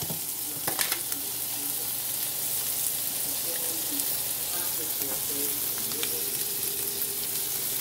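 Sliced boiled eggs, peppers and onions frying in butter in a stainless steel skillet, a steady sizzle, while a metal spoon stirs them. A few sharp clicks of the spoon against the pan about a second in.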